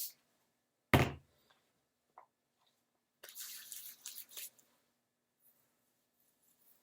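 A trigger spray bottle of leave-in conditioner giving a sharp spray into the hand about a second in. About three seconds in comes a second or so of soft hissing and rubbing.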